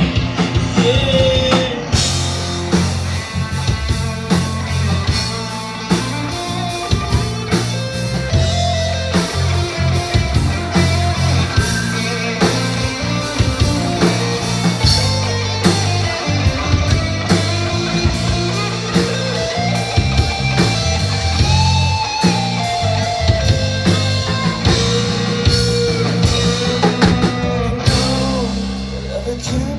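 Live rock band playing an instrumental passage: electric guitars over a drum kit keeping a steady beat, no singing. It drops to a quieter stretch near the end.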